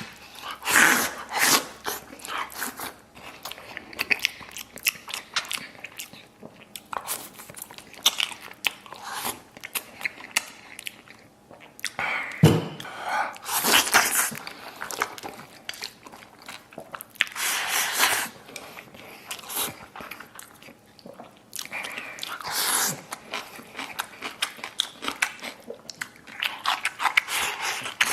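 A person chewing and biting into meat, with irregular crunching clicks and a louder bite now and then.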